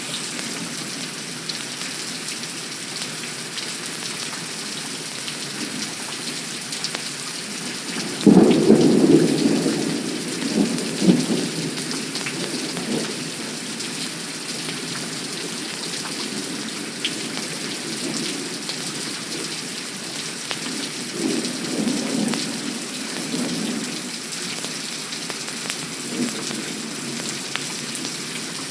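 Steady heavy rain, with a sudden loud thunderclap about eight seconds in that rumbles on for several seconds. Fainter rolls of thunder come about twenty-one seconds in and again near the end.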